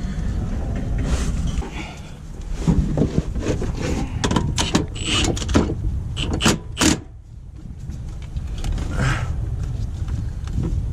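Metal hand tools and bolts clicking and clanking while bell housing bolts are put back into a truck gearbox, with a cluster of sharp knocks in the middle, over a steady low rumble.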